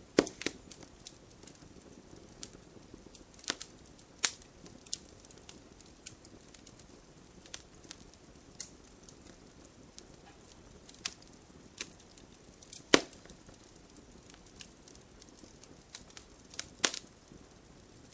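Bonfire crackling with irregular sharp pops and snaps of burning wood, a few much louder than the rest, the loudest about two-thirds of the way through. Underneath runs a soft, steady hiss of gentle rain.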